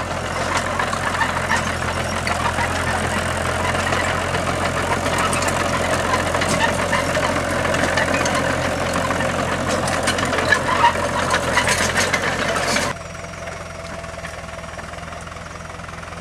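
A vehicle engine running steadily with a busy mechanical clatter. About 13 s in it cuts abruptly to a quieter, smoother engine hum.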